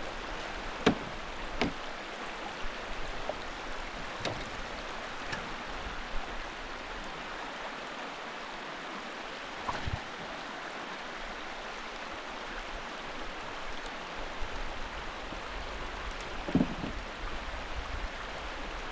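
Steady rush of flowing river water, with a few short knocks and clicks scattered through it, the sharpest about a second in and another near the end.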